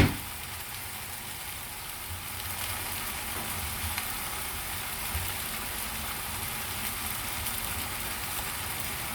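Steady sizzling of food frying in a pan, with a single sharp knock right at the start.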